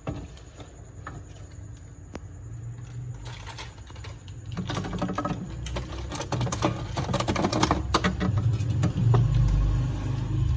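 Drink cans and bottles clinking and knocking as they are handled and stacked into a fridge: a quick, irregular run of clicks and clatter, busiest in the middle, over a low rumble that swells near the end.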